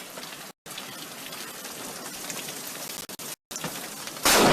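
Steady rain, broken by two brief audio dropouts. Near the end comes a sudden very loud thunderclap from a lightning strike close by.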